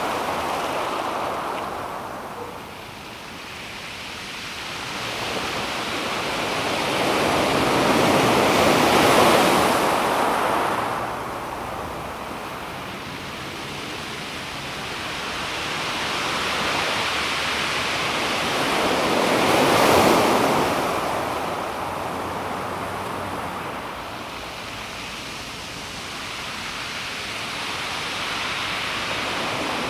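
Calm sea waves washing onto a pebble beach, swelling to a louder break about a third of the way in and again about two-thirds in, each falling away in between.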